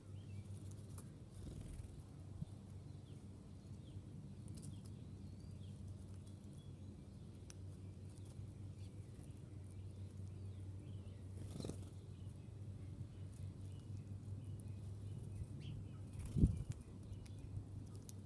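Faint, scattered bird chirps over a steady low hum, with a knock near the middle and a louder thump near the end.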